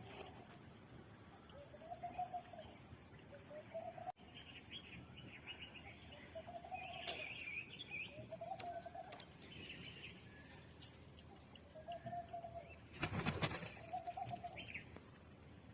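Birds calling: a short, low, arched call repeated about every one and a half seconds, with higher chirps between. A loud rustling burst comes about 13 seconds in.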